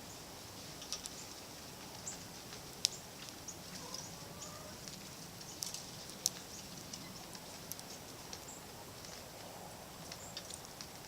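Small songbirds giving scattered short, high chips and ticks, a few every second, over a steady outdoor hiss.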